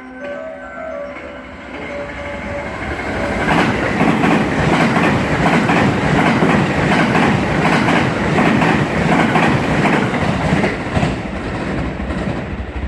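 Hanwa Line electric train running through the station. It grows louder over the first few seconds, then its wheels clatter rapidly over the rail joints before it eases off near the end.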